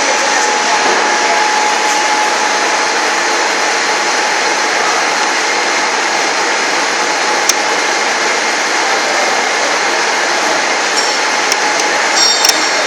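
VEG-25 end mill grinder running with a loud, steady motor noise, broken by one sharp click about seven and a half seconds in and a few small clicks near the end.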